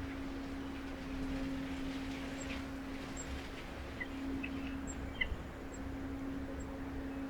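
A steady low hum with a low rumble under it, and a few faint, short bird chirps about four to five seconds in.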